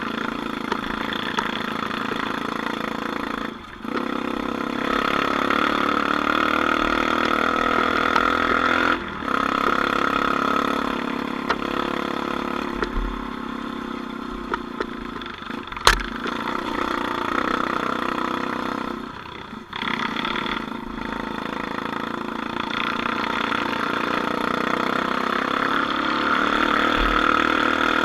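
An off-road vehicle's engine running under load, with the throttle let off briefly three times. There is one sharp knock about halfway through.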